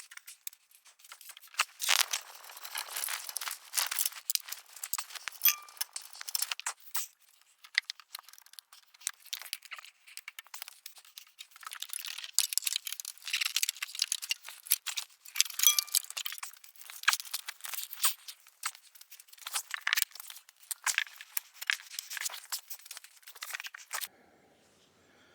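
Metal parts being handled and fitted, likely exhaust bypass pipes and metal gaskets: a dense, irregular run of clinks, scrapes and rattles that stops abruptly near the end.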